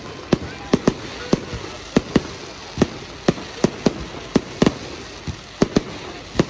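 Fireworks display: a rapid, irregular string of sharp bangs from bursting shells, about three a second, over a steady hiss.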